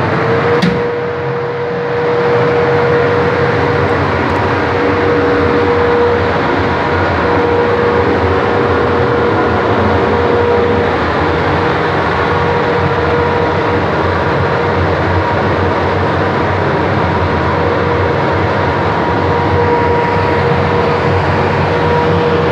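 Large 250 hp industrial fan with new blades running at speed on its final test after repair: a loud, steady rush of air with a steady hum-like tone that rises slightly in pitch at the start. A brief click about half a second in.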